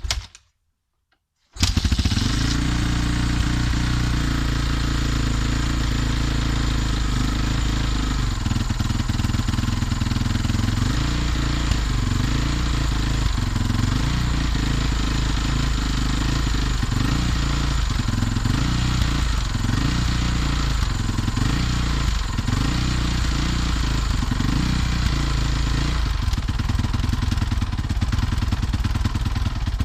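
Honda CRF450R single-cylinder four-stroke dirt-bike engine on a cold start: a short burst, a second of silence, then the engine catches about a second and a half in and runs at a steady idle, the revs rising and falling slightly through the middle.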